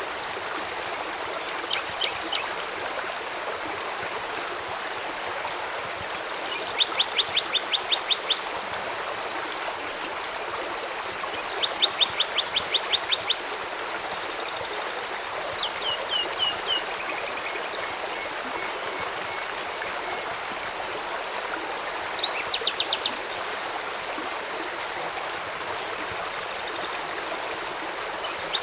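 Steady rush of flowing river water, with small birds calling over it in short, fast trills of repeated high notes, five or so bouts spread through.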